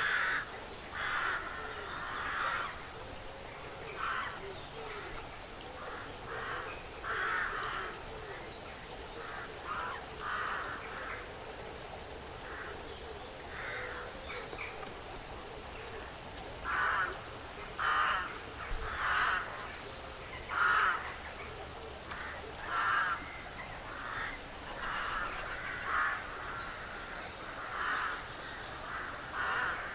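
Woodland birds calling: a short, harsh call repeated irregularly, every second or two, with a few thin high chirps in between over a faint steady forest background.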